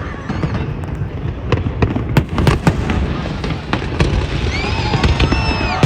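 Aerial fireworks bursting: a rapid, irregular series of bangs and crackles over a continuous low rumble.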